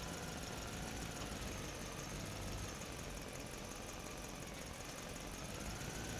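Steady engine-like running hum with a faint whine that wavers slightly in pitch.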